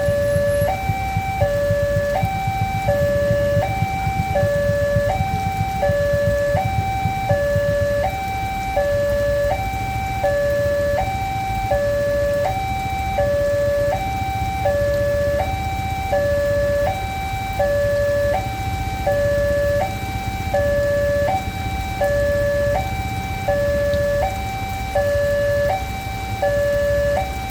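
Indonesian railway level-crossing warning alarm sounding a steady electronic two-note signal, switching between a higher and a lower note about every two-thirds of a second, with a low rumble underneath. The alarm warns that a train is approaching and the crossing barriers are down.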